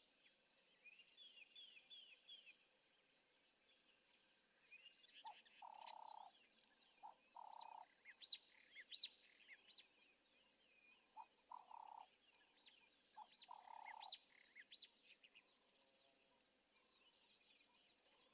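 Faint wild bird calls: many short chirps and whistled notes. They are broken by four short, low croaking notes in the middle of the stretch.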